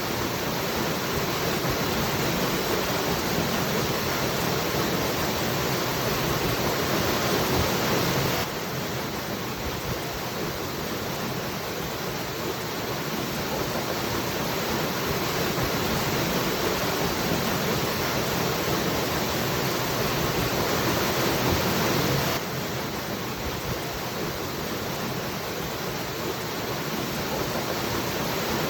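A waterfall pouring in a steady, even rush. The level drops suddenly twice, about 8 seconds in and again about 22 seconds in, then slowly builds back up each time.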